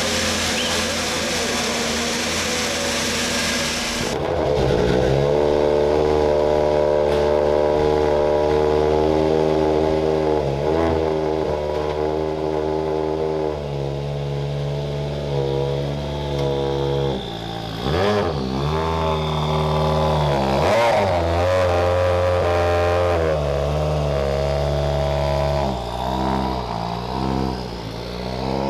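Engine of a World Rally Car, a 1.6-litre turbocharged four-cylinder, running hard. A dense rushing noise gives way about four seconds in to a clear engine note that holds steady, then swoops sharply up and down several times as the revs change.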